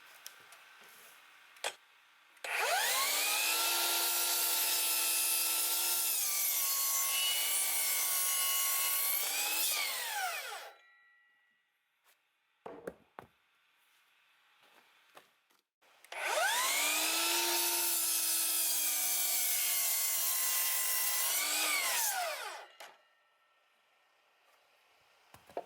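Power saw cutting through wood twice, each run about seven seconds long and starting and stopping abruptly. Its pitch sags a little under load and rises near the end of each cut.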